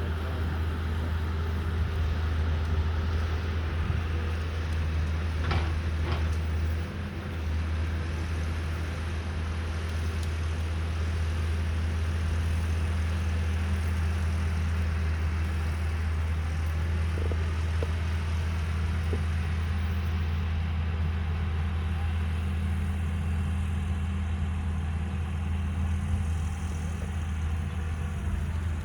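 Caterpillar 312B excavator's diesel engine running steadily with a low drone, dipping briefly about seven seconds in.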